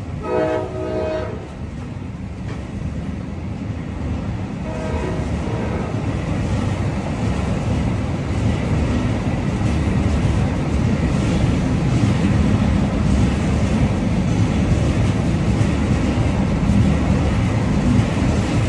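Train horn sounding a chord, one blast of about a second near the start and a shorter one about five seconds in, over the rumble of a running train that grows steadily louder.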